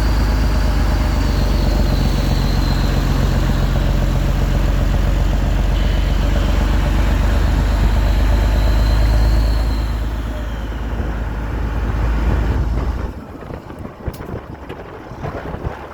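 Peterbilt 389's Cat 6NZ (C15) inline-six diesel running loud through 8-inch straight pipes, with a faint high whistle rising and falling twice. The exhaust eases off about ten seconds in and drops away sharply about three seconds later, leaving wind noise on the microphone.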